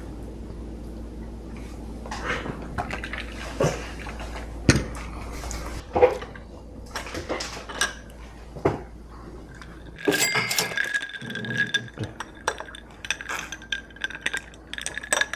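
Glassware, cups and utensils clinking and knocking while a drink is made at home, with a little liquid sound. About ten seconds in, a steady high hum joins the clinks.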